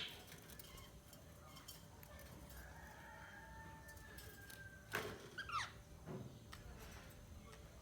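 Pet budgerigar calling softly: a faint drawn-out whistle, then a few short, sharp chirps that drop in pitch about five seconds in.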